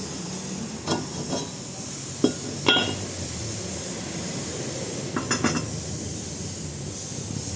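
Metal tools and parts clinking and tapping against each other in a repair shop: a few sharp, separate clinks about a second in, two more around two and a half seconds, and a short cluster just after five seconds, over a steady background noise.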